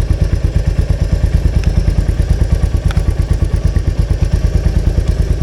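Royal Enfield Meteor 350's single-cylinder engine idling with an even beat of about eight pulses a second. Two light metallic clicks sound over it, about a second and a half in and again at three seconds.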